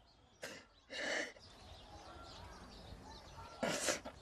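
Faint outdoor ambience with birds chirping, broken by a few short noisy bursts about half a second in, around one second, and near the end.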